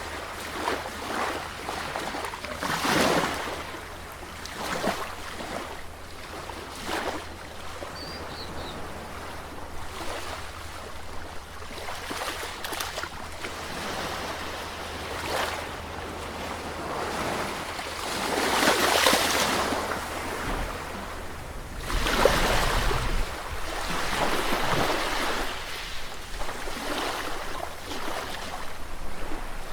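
Sea waves breaking and washing in, an uneven rushing that swells a few seconds in, again past the middle and then ebbs.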